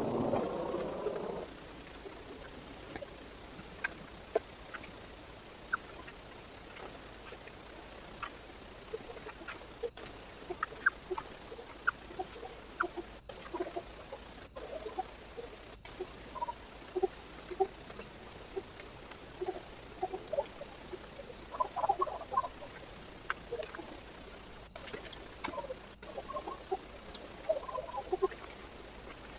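Birds at a feeder giving many short, low call notes, scattered and busier in the second half, with a louder burst of calling right at the start.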